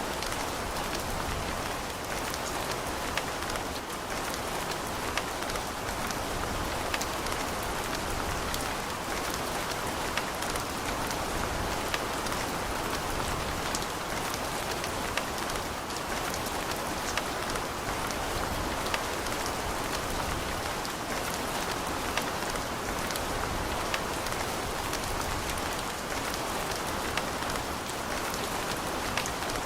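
Steady rain, with a constant hiss of falling rain and scattered sharper drop ticks on a hard surface.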